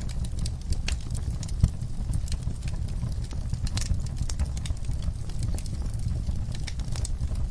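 Bonfire crackling: irregular sharp pops and snaps over a low, steady rumble, with one louder pop about one and a half seconds in.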